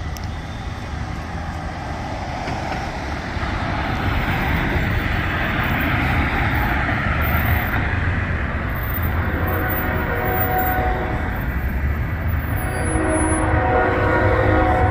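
Train running by, its low rumble and rail noise growing louder, with a horn starting to sound in the last few seconds.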